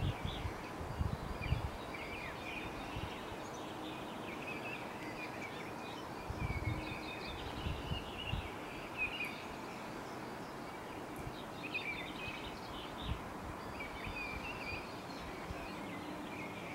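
Small songbirds chirping and twittering on and off over a steady outdoor background hiss, with a few soft low thumps.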